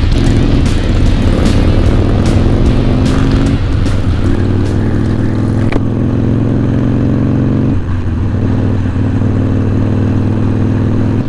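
Motorcycle running at a steady road speed, engine and wind noise together, with background music playing over it.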